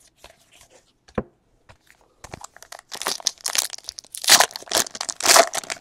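Foil wrapper of a trading card pack being torn open and crinkled: a few faint ticks, then about three seconds of crackling tearing and crinkling.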